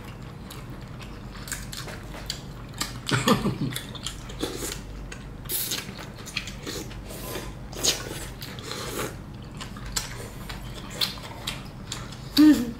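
Close-miked eating sounds: chewing beef and slurping rice noodles from pho, with repeated wet smacks and clicks of mouths and a short hum of pleasure about three seconds in.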